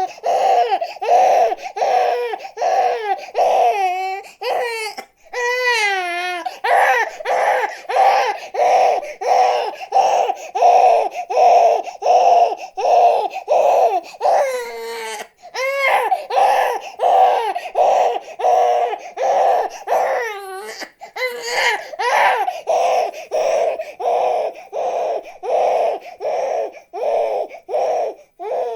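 Infant crying hard: short, high cries repeated about twice a second, broken by a few longer wavering wails.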